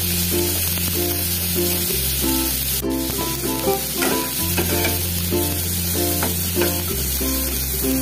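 Onions, green chillies and tomato sizzling steadily in oil in a non-stick pan, stirred now and then with a metal spatula, under background music with a low bass line and a repeating melody.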